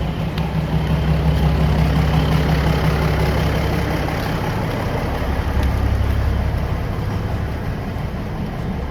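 Diesel train engine idling with a steady low hum, its tone shifting slightly about four seconds in.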